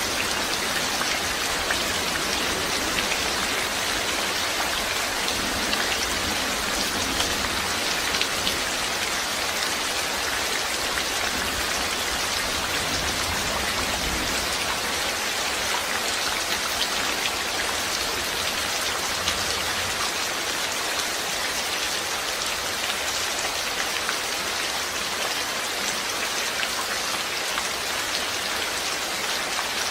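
Steady rain falling, a continuous even hiss with the patter of individual drops. A faint low rumble underneath dies away about two-thirds of the way through.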